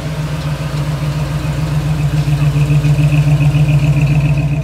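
Engine and exhaust of a red early-1940s Ford coupe street rod driving slowly past at low revs: a low, pulsing engine note that grows louder as the car draws near and goes by, loudest near the end.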